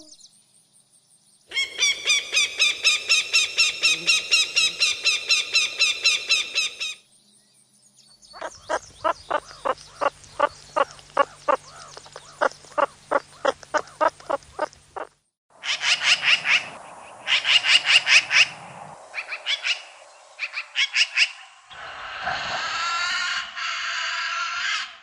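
A succession of different animal calls, with short breaks between them. First comes a fast trill lasting about five seconds, then a long run of evenly spaced chirps, then groups of sharp chirps, and near the end a harsher call.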